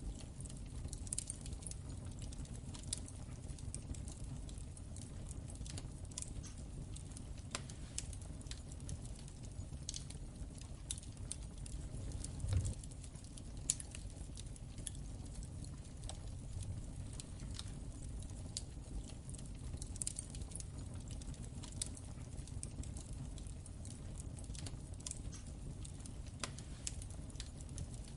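Wood fire crackling in a fireplace: scattered sharp pops and crackles over a low, steady rumble of the flames, with a soft thump about halfway through and a sharper pop a second later.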